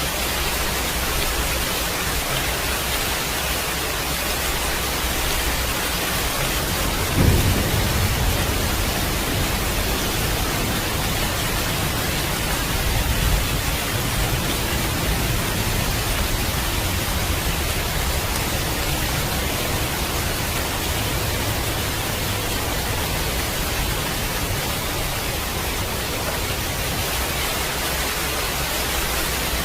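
Steady rain hissing, with a sudden low clap of thunder about seven seconds in and a softer roll of thunder around thirteen seconds.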